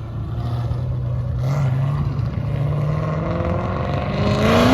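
A car engine running, then revving up with a rising note that grows louder near the end.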